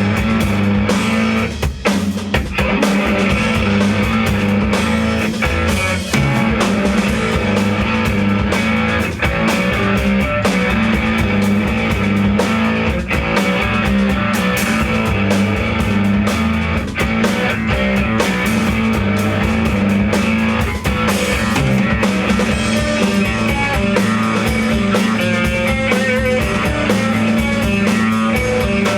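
Rock band playing a song: guitar and drum kit, loud and unbroken.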